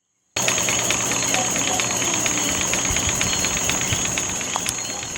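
Bolton steam mill engine running steadily, with a constant hiss and a high whine over light, rapid, even ticking from its moving parts.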